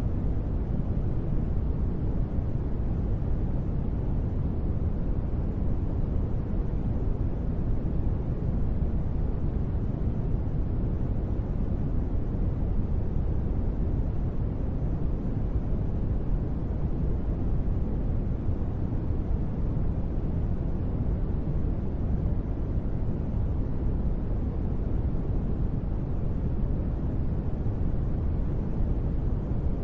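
Steady rain-style white noise for sleep: an even, deep rush with little hiss and no individual drops, its level unchanging.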